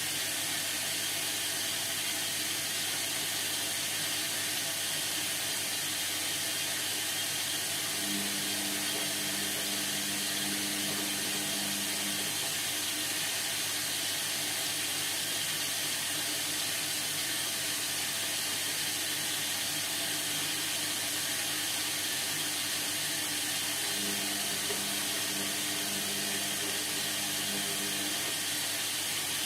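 Indesit MTWC71252WUK washing machine running mid-cycle: a steady hiss of water, with the drum motor humming twice, each time for about four seconds.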